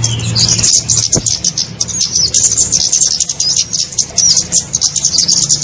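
Small birds chirping and twittering in rapid, high-pitched runs of short notes: a lure-call recording for kemade. A steady low hum lies underneath.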